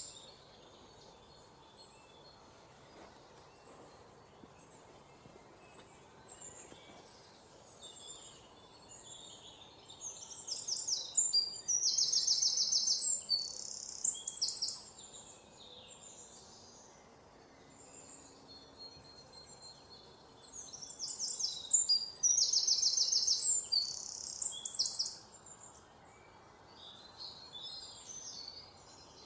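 Songbirds singing: two loud bouts of rapid, high trilled song, one about ten seconds in and one about twenty seconds in, with fainter scattered chirps from other birds between them over faint, steady background noise.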